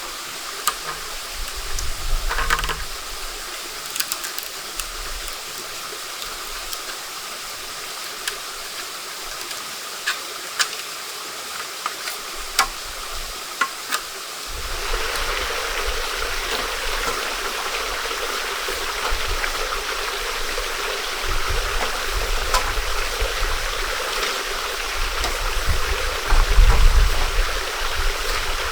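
Stream water running steadily with a rushing hiss that grows suddenly louder about halfway through. Scattered sharp clicks and knocks come in the first half, and a few low thuds near the end.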